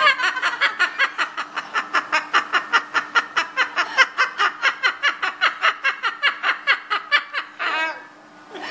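Cockatoo laughing like a person: a long, fast run of short high-pitched 'ha-ha' notes, about five a second, ending in a longer call near the end.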